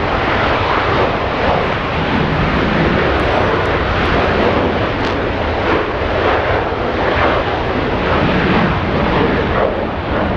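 Aircraft engine noise, loud and steady with slow swells, from airplanes flying overhead.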